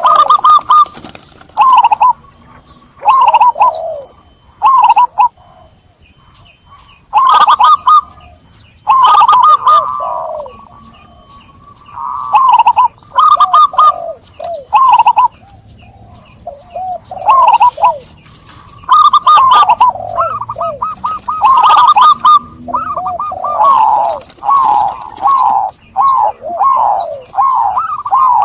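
Zebra dove (perkutut) cooing loudly in quick runs of short, repeated coos with short pauses between phrases, mixed with brief sharp chirps.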